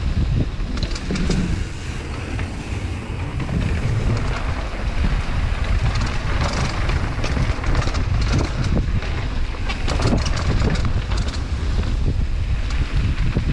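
Wind buffeting a ride-mounted camera's microphone during a fast mountain bike descent, with low rumble and tyre noise over dirt and frequent small clicks and rattles from the bike.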